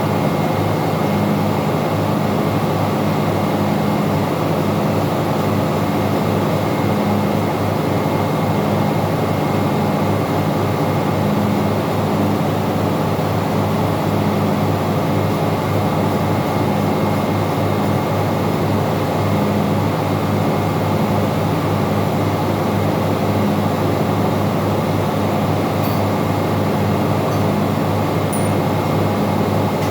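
Loud, steady machinery drone of a ship's engine room, with fixed humming tones and a slight regular pulsing, and a few light ticks near the end.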